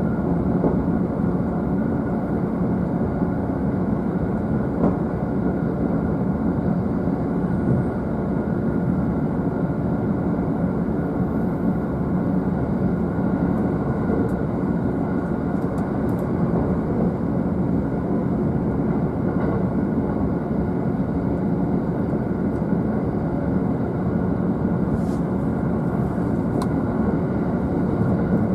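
JR East E531 series electric train running steadily, heard inside the upper deck of a double-deck Green car: a continuous low rumble of wheels on rail and running gear, with a few faint ticks.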